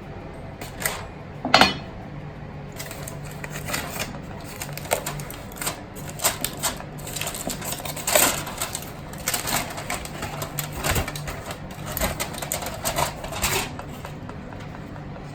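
Irregular clinks and scrapes of a utensil against a cooking pot as a freshly opened pot of dum biryani is dug into, over a steady low hum.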